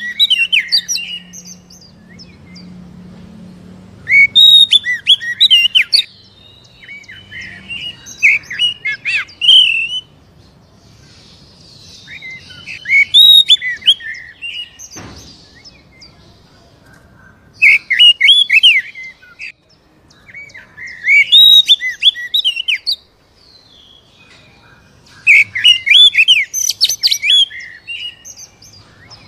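Oriental magpie-robin (kacer) singing: loud bursts of rapid, sharply gliding whistles and chirps lasting a second or two each, repeated every few seconds with short pauses between phrases.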